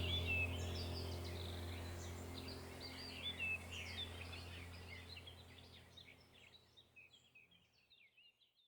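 Many small birds chirping and twittering in quick, short calls over a steady low hum, the whole sound fading away to silence.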